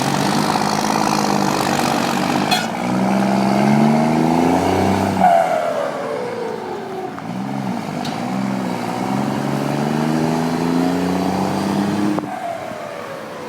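Volkswagen 24.250 truck's diesel engine pulling away under load, its pitch climbing and then dropping sharply at a gear change about five seconds in and again near the end.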